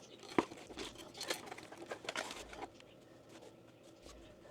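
Hands working with plumbing parts: a sharp click about half a second in, then a couple of seconds of rustling and small knocks that die down.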